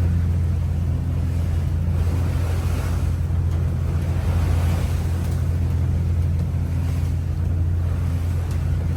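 Trawler's diesel engine running steadily underway, a low drone, with the wash of the sea and wind over it.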